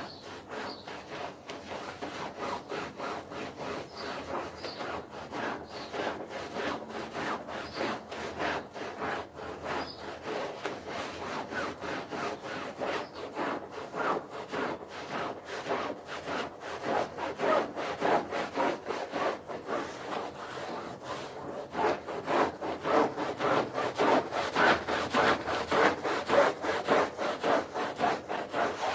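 A stiff brush scrubbing a wet carpet in quick back-and-forth strokes, about three a second, growing louder in the last several seconds.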